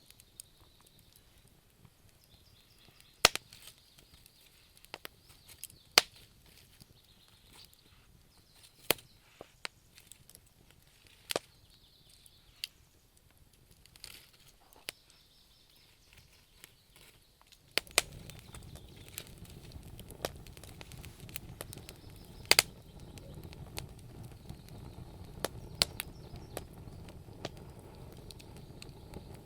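Wood fire crackling, with sharp irregular pops and snaps. About two-thirds of the way in, a steady low rushing noise rises under the crackle and stays.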